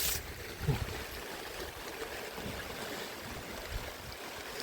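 Steady hiss of falling rain, with a couple of dull low thumps about a second in and near the end.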